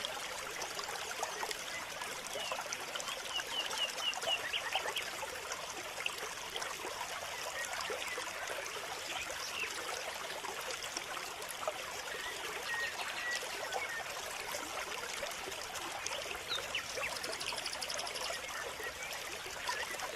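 Water trickling steadily, with birds chirping over it in short calls.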